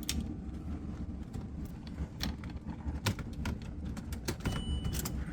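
Car key clicking and jingling as it is fitted into a Land Rover's ignition, a run of irregular sharp clicks. A steady high beep comes on near the end.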